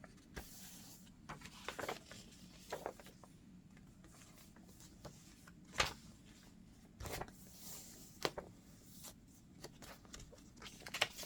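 Pages of a handmade paper journal being turned and handled: soft paper rustles with a few sharp taps and flicks, the clearest about six, seven and eight seconds in.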